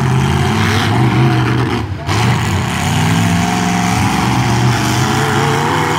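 Demolition-derby truck engines running hard and revving, their pitch rising and falling, with a brief drop in level about two seconds in.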